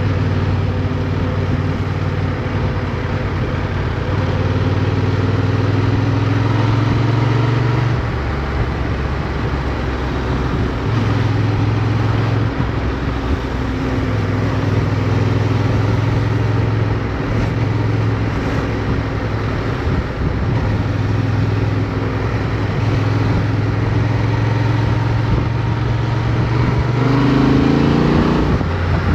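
Motorcycle engine heard from an onboard camera, running at a steady pace with wind noise over the microphone. The engine note drops about eight seconds in and holds steady, then the revs climb sharply near the end as it accelerates.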